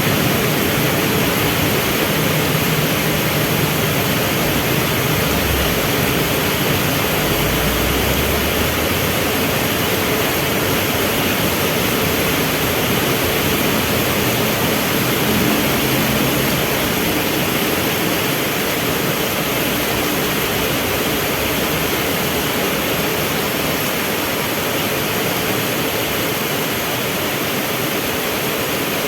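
Heavy rain falling steadily, a dense even hiss. Underneath it is the low hum of vehicle engines waiting at a traffic light, clearest in the first several seconds.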